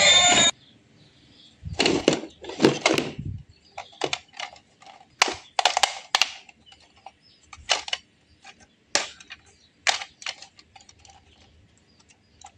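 Irregular clicks and clacks of small hard objects being handled, with a few heavier knocks about two seconds in, then sparser sharp clicks.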